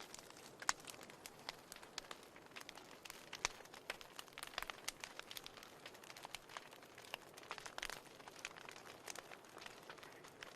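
Wood fire in a fireplace crackling: irregular sharp pops and snaps over a soft hiss.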